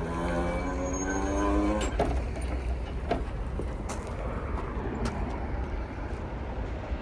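Diesel locomotive's air horn sounding a chord that cuts off about two seconds in, over the low rumble of the freight train, followed by a few sharp clunks of wheels over rail joints at the crossing.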